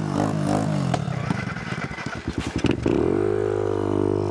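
Small single-cylinder pit bike engine running: its note rises and falls and chugs unevenly at first, then settles into a steady note about three seconds in.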